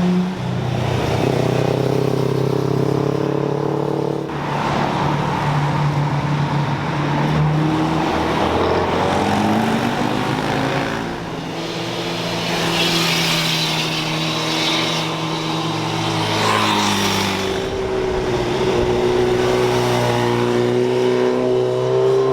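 Engines of sports cars and sport bikes accelerating and passing one after another, their pitch rising and falling through the gears, with a rush of noise as each goes by.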